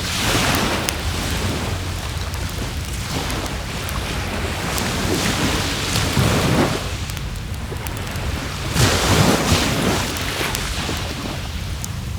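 Waves washing onto a shore in swells every few seconds, with wind noise and the occasional small crackle of a wood fire.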